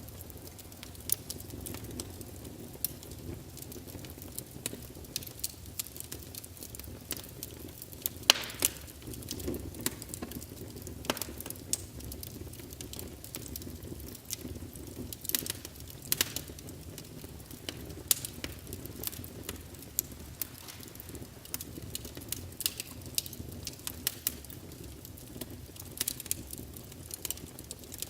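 Logs burning in a fireplace, crackling with irregular sharp pops over a steady low rumble of the flames; the loudest pop comes about eight seconds in.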